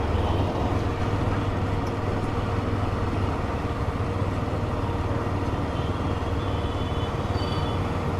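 Yezdi Adventure motorcycle's single-cylinder engine running steadily while riding, with road and traffic noise.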